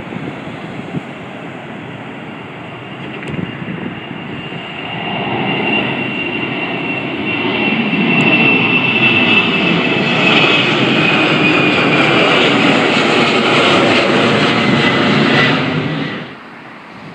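Airliner passing close: engine noise builds over several seconds to a loud, steady level, with a high whine that falls slowly in pitch as it goes by, then cuts off suddenly near the end.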